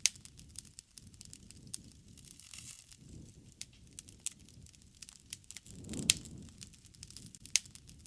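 Campfire burning: wood crackling with irregular sharp pops, and a low rushing swell of the flames about six seconds in.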